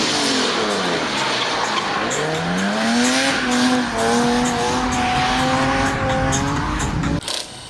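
Drift car's engine at high revs: its pitch falls about a second in, climbs back and then holds high through a long slide, over a steady hiss of tyres skidding on the wet track. The sound drops away suddenly near the end.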